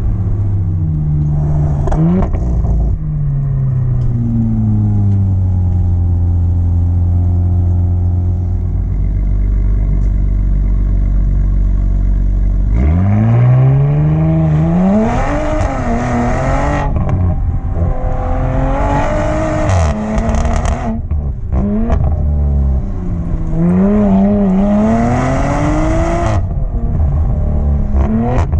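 Race-prepared Audi TT's engine, tuned on E85, driven hard: revs climb and drop with gear changes, settle to a lower, slowly falling note for several seconds, then rise sharply again about halfway through and keep swinging up and down through further shifts and lifts.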